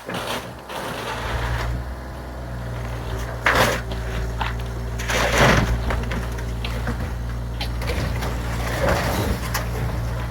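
Bobcat compact excavator's engine running steadily while it crunches through the garage structure, with two loud crashes of breaking debris about three and a half and five seconds in and a smaller one near the end.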